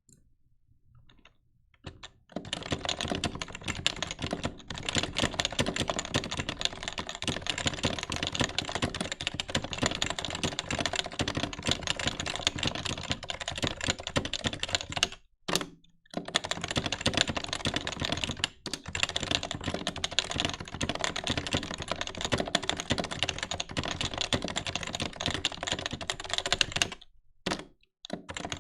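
Fast, continuous typing on a Happy Hacking Keyboard Professional 2 with 45 g Topre electro-capacitive rubber-dome switches. The keystrokes start about two seconds in and stop briefly twice.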